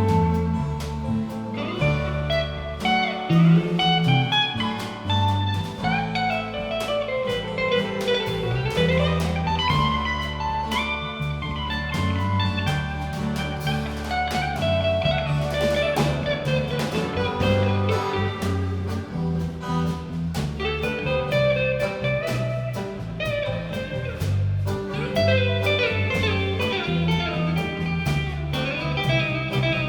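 Live band playing an instrumental blues passage led by guitar, its notes gliding up and down, over a moving bass line and a steady beat.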